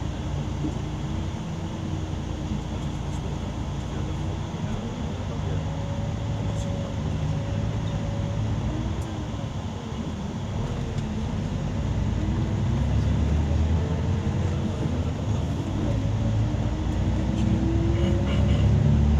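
Scania coach engine running, heard from inside the passenger cabin over steady road rumble. Its hum slowly rises and falls in pitch, and it gets louder from about two-thirds of the way in as the bus picks up speed.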